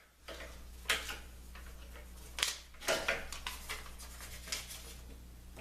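A few light knocks and clatters of hand handling at the workbench, spaced a second or so apart, over a steady low hum.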